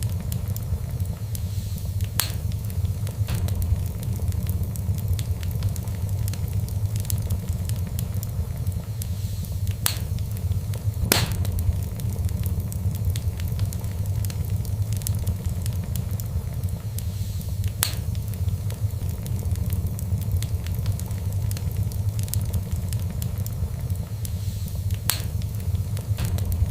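Wood fire burning in a fireplace: a steady low rumble of the flames with scattered sharp crackles and pops, the loudest pop about eleven seconds in.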